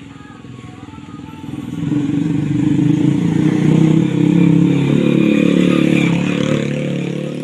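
A motor vehicle engine running close by, growing louder about two seconds in and staying loud.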